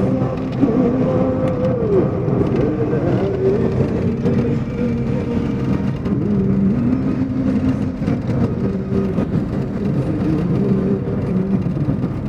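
A steady motor-vehicle drone, its tones gliding up and down in pitch.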